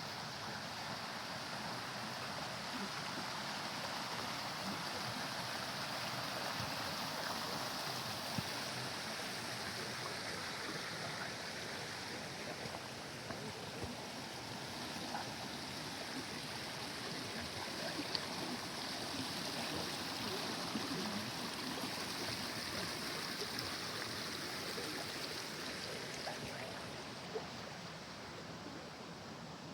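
A small stream running over rocks: a steady rush of water that grows a little quieter near the end.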